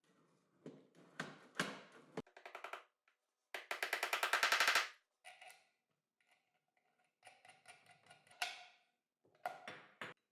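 Workshop handling sounds of small parts and tools: scattered clicks and knocks, with a rapid run of evenly spaced clicks, about a dozen a second and growing louder, a little past a third of the way in.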